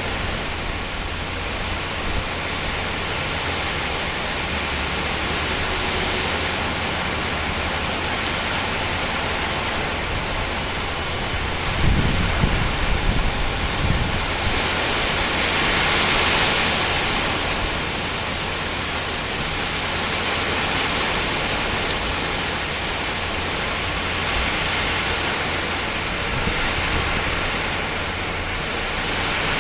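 Rain falling on a tin roof, a dense steady hiss of drops that grows heavier for a few seconds past the middle. A few low rumbles come through about twelve seconds in.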